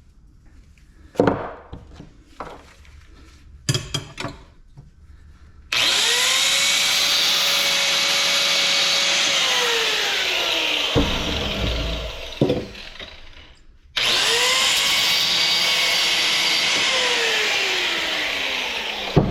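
Handheld electric power tool cutting into a scrap ice-maker part for its copper: a few knocks of handling, then two runs of about five seconds each. Each run is a steady high motor whine that winds down in pitch as the trigger is let go.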